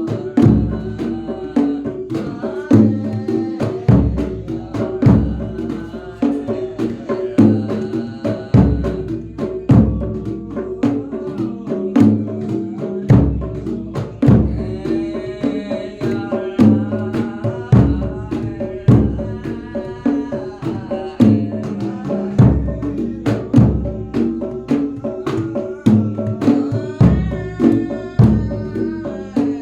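Jedor bass drum beaten at an even pulse of about one deep stroke a second, under a folk percussion ensemble with ringing pitched tones and a wavering melody line.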